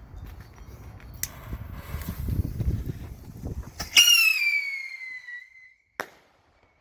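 Bottle rocket launching about four seconds in with a loud whistle that falls slightly in pitch and fades over about a second and a half. About two seconds later comes a single sharp bang: the rocket's report.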